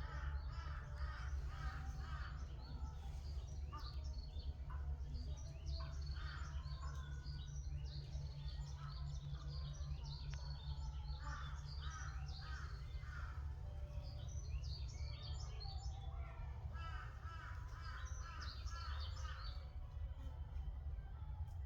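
Several forest birds calling and chirping in quick repeated phrases throughout, with crow-like caws among them, over a steady low rumble.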